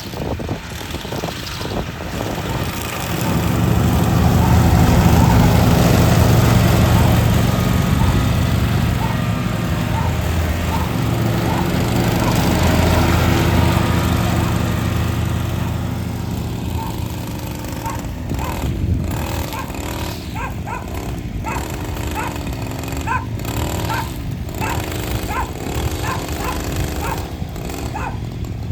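Petrol lawn mower engine running steadily, growing louder about three seconds in and easing off again after about sixteen seconds as the mower moves nearer and then farther away.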